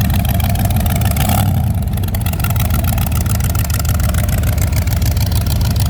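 Rat rod's engine running with a deep, steady rumble made of rapid, even firing pulses.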